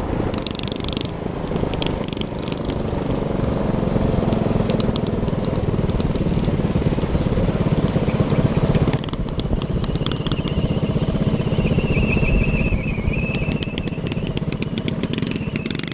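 Minibike engine running as it is ridden, with rattling throughout. The engine eases off about nine seconds in, and a thin high whine is heard for a few seconds after.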